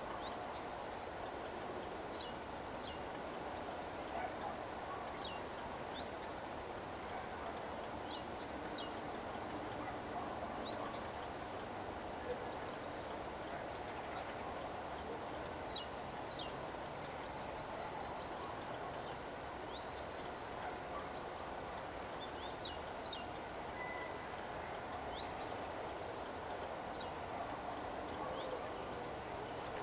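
Birds chirping in short, high calls, a few at a time, over a steady low background hum of distant ambience.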